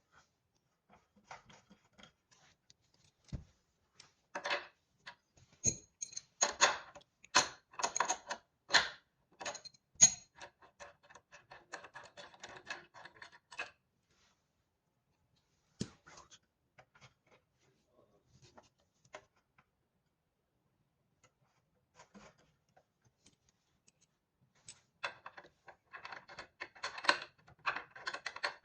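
Bursts of quick clicking, tapping and rattling from hand tools and metal and plastic parts being handled: thick for the first half, then a quiet spell, then more clicking near the end.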